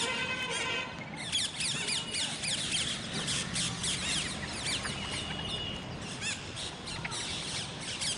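A flock of parrots chattering, a dense stream of short rapid chirps and squawks overlapping, with one longer held call in the first second.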